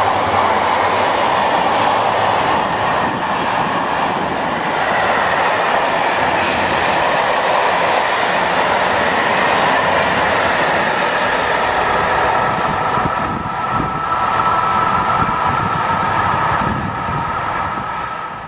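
Freight train of car-carrier and tank wagons passing close at speed: a loud, steady rush of steel wheels on rail with a thin high squeal. Wheel knocks come through more plainly in the last few seconds, and the sound fades as the last wagons go by.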